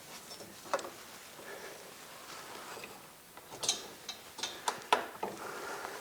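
Irregular metallic clicks and knocks as the garage door opener's chain drive and its parts are worked on by hand; most of the sharp clicks come in the second half.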